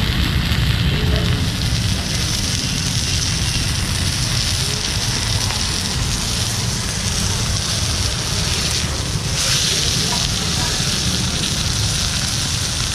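Whole fish and prawns sizzling in oil on a large flat iron griddle over a coal and wood fire: a steady frying hiss. A steady low rumble sits underneath.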